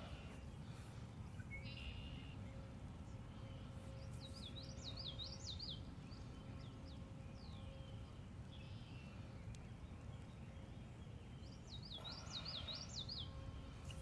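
Faint outdoor ambience with a songbird singing the same short phrase of quick, high up-and-down notes twice, several seconds apart, over a low steady background rumble.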